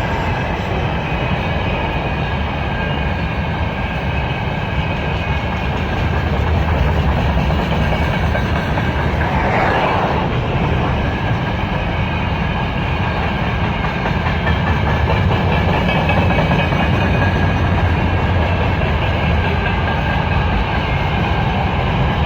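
Freight train cars rolling past, a steady loud rumble with wheels clattering over the rail joints and a brief brighter rise a little before the middle.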